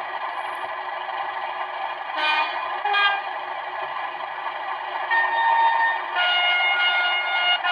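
Class 37 model locomotive's sound decoder playing the diesel engine idling through the model's small speaker, with two short horn toots about two seconds in, then a longer horn blast from about five seconds that changes pitch about a second later, the two tones of the horn.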